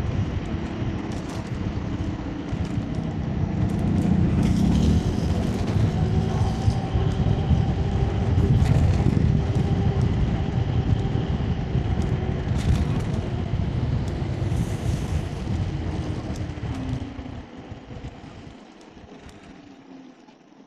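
Wind rumbling on the camera microphone while riding an electric scooter, with a faint steady whine underneath and a few clicks; the noise drops off sharply near the end.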